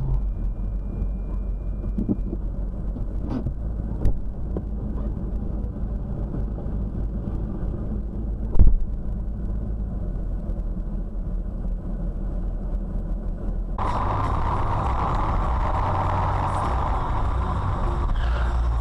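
Steady engine and road rumble of a moving car heard from inside the cabin through a dash cam's microphone, with a few sharp knocks, the loudest about eight and a half seconds in. About fourteen seconds in, it cuts abruptly to a louder, hissier road noise.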